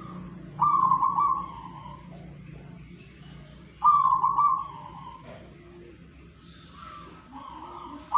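A bird calling three times, each call loud and rough and about a second long, roughly every three and a half seconds, over a faint steady low hum.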